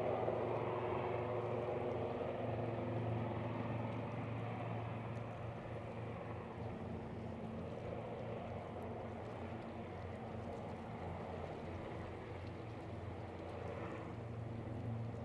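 De Havilland Otter floatplane's engine running at low power on the water, a steady drone that slowly fades.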